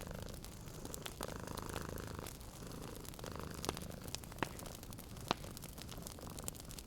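Domestic cat purring steadily, with a wood fire crackling: a few sharp pops over the purr, the loudest just past the middle.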